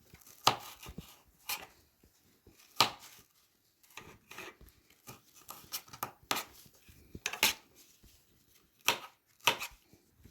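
Kitchen knife slicing an orange bell pepper, the blade coming down in sharp knocks at irregular intervals, some louder than others.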